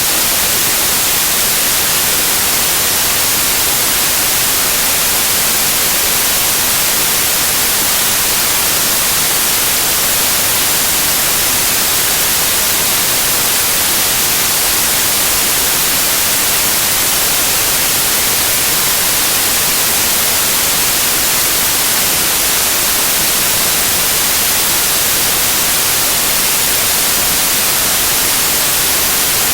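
Loud, steady white noise: an even hiss, strongest in the high frequencies, with no change throughout.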